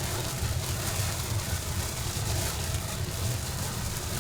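Steady rain: a continuous even hiss with a low rumble underneath.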